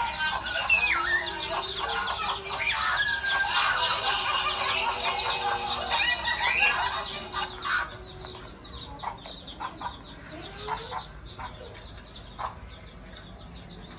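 A parrot chattering and squawking, dense and busy for about eight seconds, then thinning to scattered, quieter calls.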